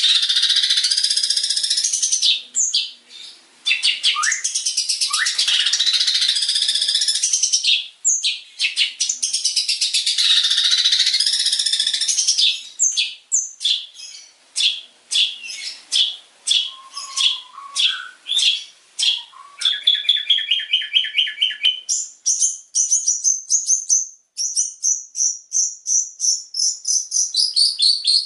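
Long-tailed shrike (cendet) song from a masteran training recording. For the first twelve seconds it is a dense, continuous high warbling. After that it breaks into separate sharp chips, and from about 22 s into a fast string of repeated high notes, the quick 'tembakan' fills.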